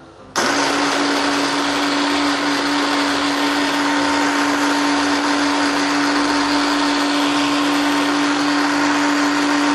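Hand blender switched on about half a second in and running steadily at one speed, puréeing garlic, ginger, green onion and shallot in hot water and chicken oil: a steady motor hum with a single held pitch over a wet churning hiss.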